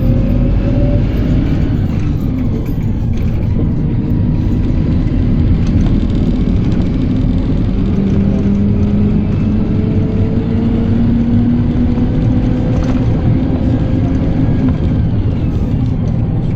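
PAZ-320405-04 "Vector Next" bus engine running under way, with a steady low rumble of engine and road. Its tone rises slowly and evenly as the bus gathers speed.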